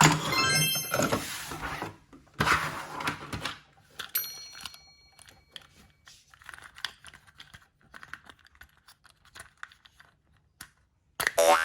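Clattering and rustling of small hard objects being handled, in three bursts over the first five seconds, then faint scattered clicks.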